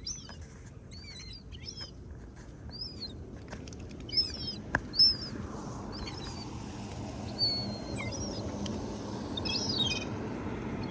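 High, thin whistled calls of young gulls, short peeps repeated at irregular intervals, over a steady outdoor hiss.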